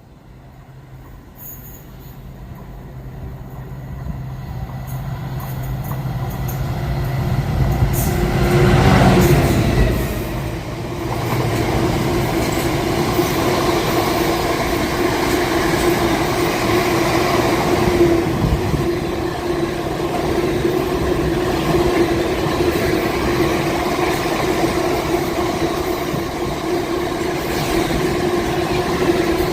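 A train approaching and growing steadily louder, its front passing about nine seconds in with a drop in pitch, then a long run of vehicles rolling by with a steady rumble and a continuous whining tone from the wheels.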